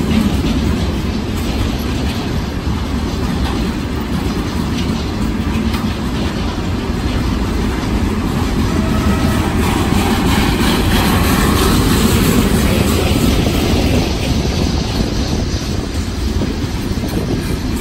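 Freight train rolling past: a steady, heavy rumble of wheels on the rails.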